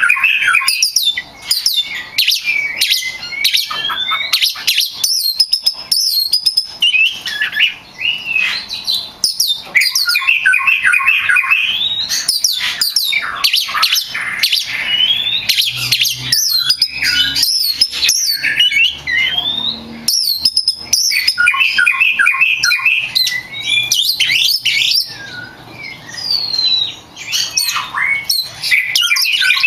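Oriental magpie-robin singing continuously in full 'gacor' song: a fast, unbroken stream of varied whistles, up- and down-slurred notes and trills mixed with short harsh chattering clicks.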